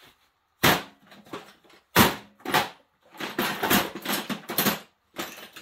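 Hand tools being rummaged through and handled: a few sharp separate knocks, then a quick run of clattering about three seconds in, and one more knock near the end.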